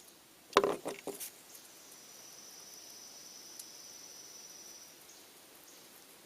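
A quick cluster of sharp clicks and knocks about half a second in, from small objects being handled on a work surface, then a faint steady high whine for a few seconds.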